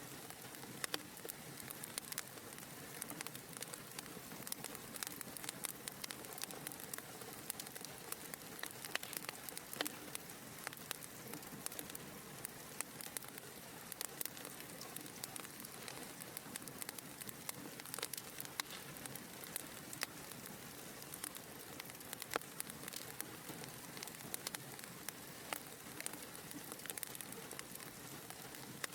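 Wood fire burning in a fireplace: a steady hiss of flames with frequent, irregular sharp crackles and pops.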